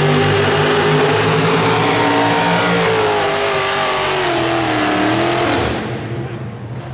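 Pulling truck's engine running flat out under load, with a steady pitch that sags as the engine bogs down. It then cuts off sharply about six seconds in.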